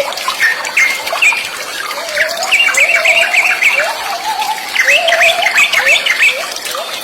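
Sooty-headed bulbuls (kutilang) calling: a dense, continuous run of quick chirps and whistled notes, with a lower rising note repeating every second or so underneath.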